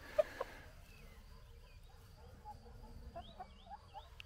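Faint bird calls: a quick run of short chirps in the second half, with a few soft clicks near the start.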